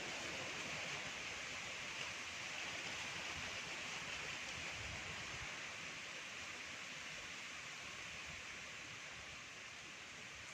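Wind blowing, a steady rushing hiss that eases a little toward the end.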